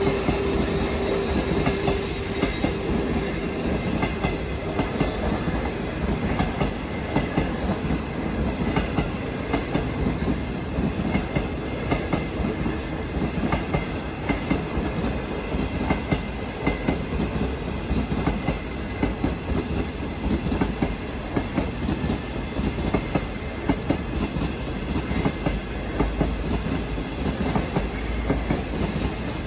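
A long train rolling past, its wheels clattering over the rail joints in a continuous run of clicks over a steady rumble. A steady hum in the first few seconds fades away.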